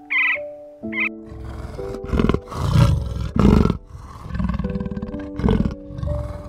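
A large animal's deep, rasping calls, repeated several times, loudest around the middle, over gentle piano-like music.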